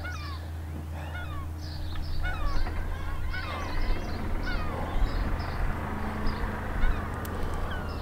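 Birds calling over and over: many short, falling cries, with a steady low hum beneath.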